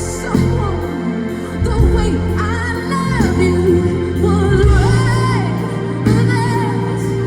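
Live pop band music with a female singer's wordless vocal runs gliding over sustained chords and a bass line that shifts every second or so.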